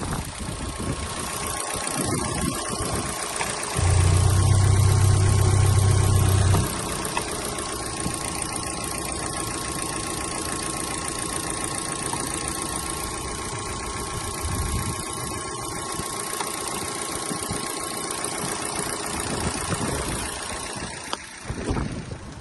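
Opel Vectra C's 1.8-litre Z18XER four-cylinder petrol engine running on test. A much louder spell lasts about three seconds, starting about four seconds in.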